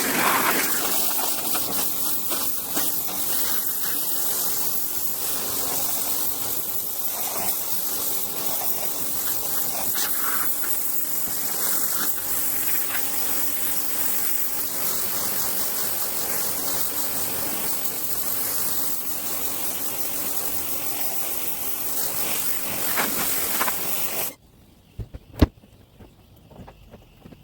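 Pressure washer spraying, a steady loud hiss of water with a motor hum underneath. Near the end it cuts off suddenly, followed by a single click.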